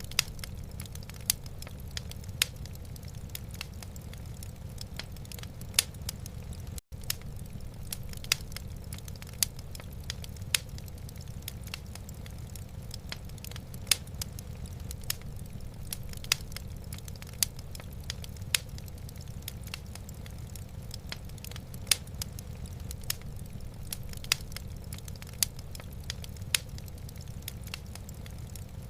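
Wood fire in a fireplace crackling: irregular sharp pops and snaps over a low, steady rumble. The sound cuts out for an instant about seven seconds in.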